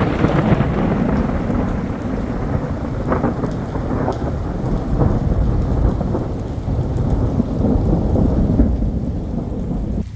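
Heavy rain pouring down, with a deep rumble of thunder underneath. It comes in suddenly and cuts off suddenly near the end.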